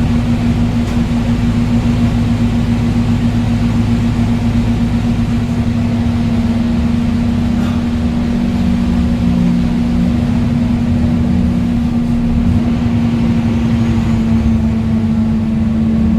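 Scania N230UD bus's five-cylinder diesel engine pulling at steady, fairly high revs, a constant loud drone that holds one pitch throughout.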